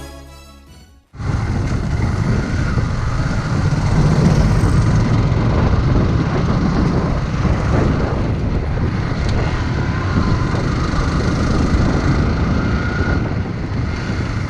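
Music ends about a second in. Then comes the steady rush of riding a Yamaha R15 motorcycle: wind on the microphone over the bike's engine and road noise.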